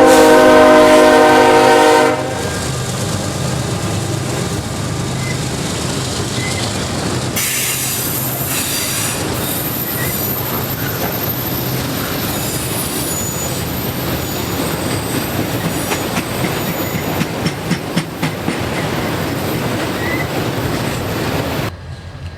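Diesel freight locomotive's air horn sounding a chord until about two seconds in, then the freight train rolling past with wheels clattering over the rails and squealing high. The sound cuts off abruptly near the end.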